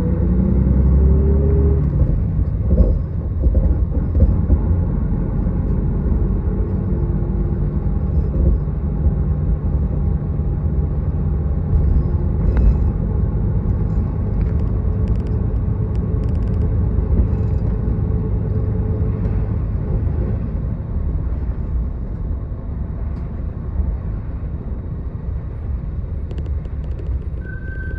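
Miyazaki Kotsu route bus under way: engine and drivetrain running with a low rumble, rising in pitch as the bus accelerates in the first couple of seconds, then running steadily at speed. A steady high beep starts near the end.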